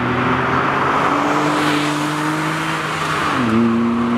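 Honda S660's small turbocharged three-cylinder engine pulling under acceleration. Its note rises slowly, then drops sharply about three and a half seconds in at an upshift and holds steady.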